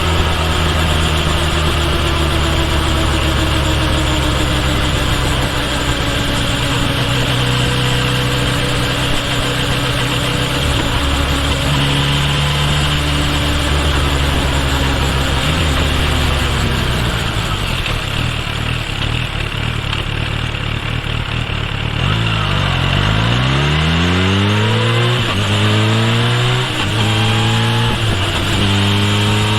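Kawasaki Ninja H2 SX's supercharged inline-four running at a steady cruise, easing off, then pulling away: the engine note drops and climbs in several rising sweeps as it goes up through the gears. There is wind and road noise throughout.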